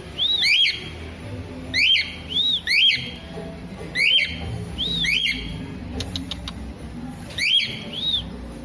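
A bird repeating a short, arched whistled call, often two in quick succession, every second or two, with a few faint clicks about six seconds in.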